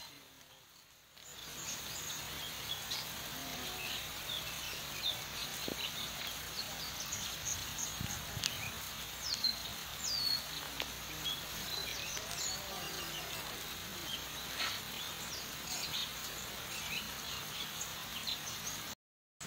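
Outdoor ambience of scattered bird chirps, short high calls and quick falling whistles, over a steady low hum. The sound drops out briefly near the end.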